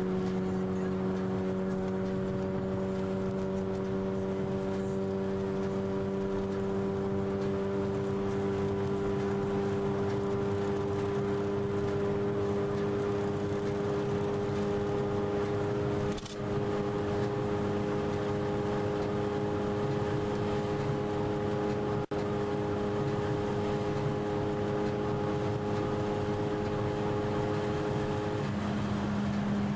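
Car engine held at steady high revs at speed, heard from inside the cabin as one constant note with overtones. The note shifts slightly near the end.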